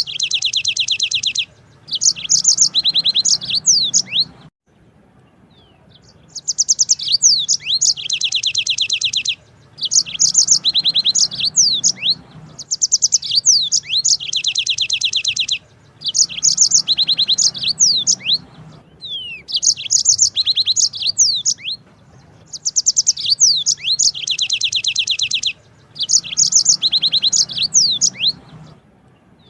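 Yellow-fronted canary (Mozambique canary) singing in long rolling phrases of fast high trills mixed with quick sweeping notes. Each phrase lasts a few seconds and is broken by a short pause, with one longer pause about four seconds in.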